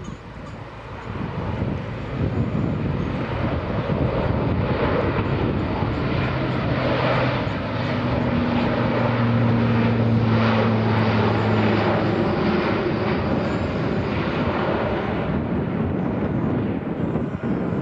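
Aircraft flying over, its engine noise building over the first two seconds and then holding loud, with a steady low hum through the middle.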